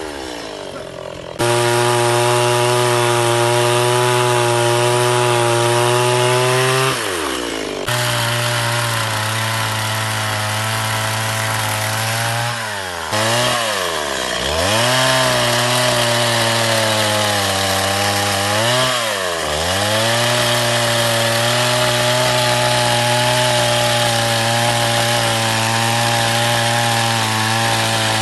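Stihl MS 170 two-stroke chainsaw running at high speed while cutting wood. Its engine note sags and comes back up about four times.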